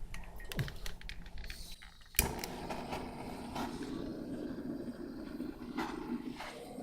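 A handheld gas torch sparks alight with a sharp click about two seconds in, then burns with a steady flame hiss as it lights the kindling in a wood stove. Before that, a few faint handling clicks.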